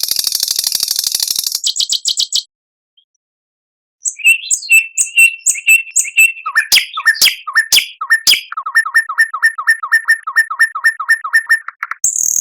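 Recorded songbird song: a dense, high buzzy trill, a pause of about a second and a half, then clear whistles and sharp chips. These lead into a long run of rapid down-slurred notes, about five a second. A buzzy trill returns near the end.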